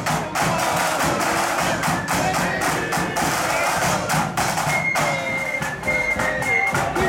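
Marching band playing on parade: a steady beat of drum strikes, with high held melody notes coming through in the second half.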